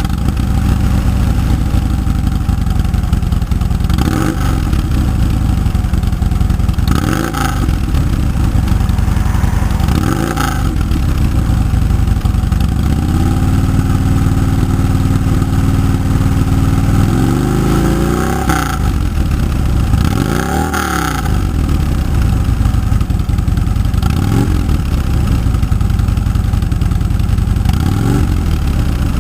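Harley-Davidson FLHT Ultra's V-twin engine idling through its exhaust muffler, blipped up in brief revs several times and held at higher revs for a few seconds in the middle.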